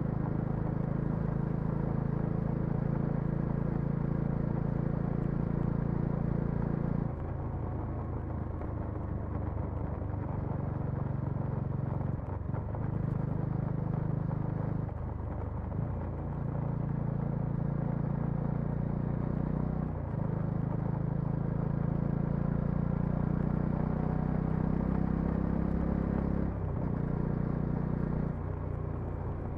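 Bajaj Dominar 400's single-cylinder engine and exhaust running while riding, with the engine note shifting up and down in steps several times.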